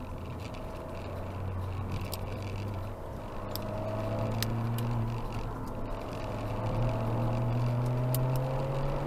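Ford Fiesta ST's engine heard from inside the cabin, pulling up through the revs twice with a brief lift in between, over road and tyre noise. A few sharp ticks.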